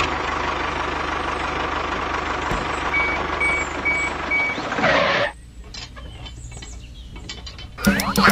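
A vehicle engine running with a loud rushing noise over a steady low rumble, and four short evenly spaced beeps like a reversing alarm in the middle. The engine noise drops away about five seconds in, and voices and music come in near the end.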